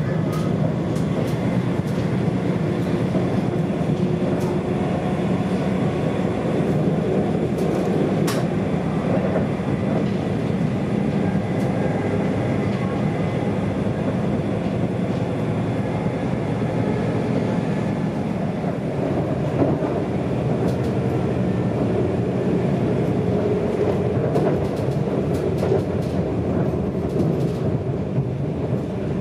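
Steady running noise inside a moving electric passenger train: the wheels rumbling on the rails. There is a single sharp click about eight seconds in.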